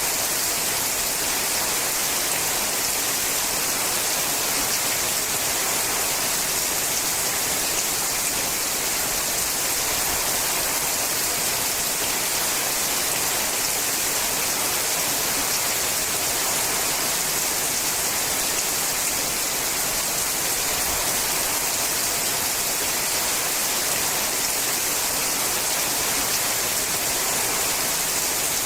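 Steady rain falling on a sheet-metal roof: a dense, even hiss of drops that holds constant throughout.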